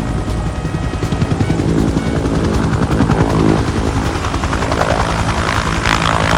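Bell 212 Eagle Single helicopter running, its single T53 turbine engine and two-blade main rotor giving a fast, even chop of the blades over a steady low drone; a hissing turbine sound grows louder near the end.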